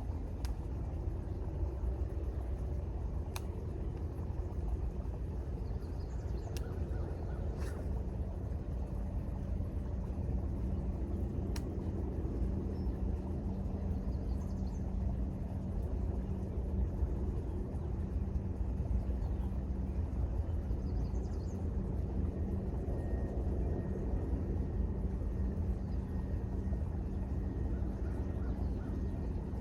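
Steady low outdoor rumble with faint bird calls now and then and a few small clicks; a steady low hum joins about twelve seconds in.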